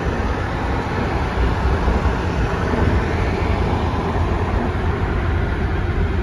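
Steady road and wind noise from a moving vehicle: a dense, even rumble, heaviest in the low end, with no distinct engine note.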